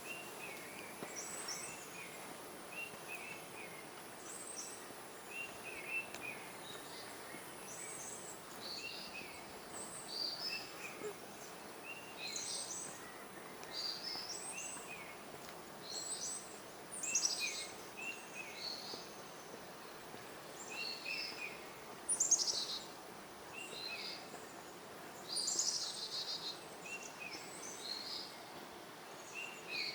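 Several tropical forest birds calling, a steady run of short chirps and quick high sweeping notes, some louder ones in the second half, over an even background hiss.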